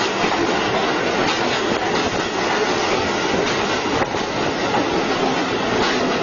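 Two electric commuter trains rolling past close together, a steady rumble of wheels on rails with irregular clacks as the wheels cross rail joints.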